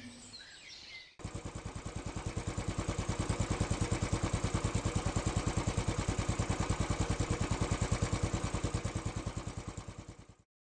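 Motorcycle engine running with an even, rapid pulsing beat. It starts about a second in, builds to a steady level, then fades and cuts off just before the end.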